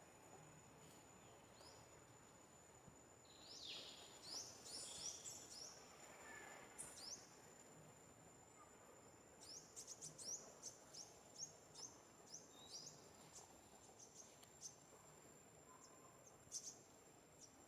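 Faint forest ambience: small birds chirping in quick runs of short, high notes, twice, over a steady thin high whine of insects.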